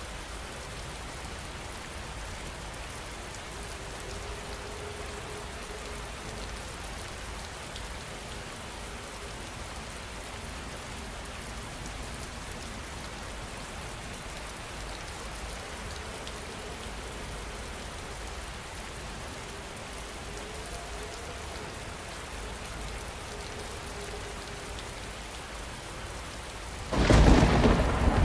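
Steady heavy rain falling, then near the end a sudden loud crack of thunder that goes on rumbling.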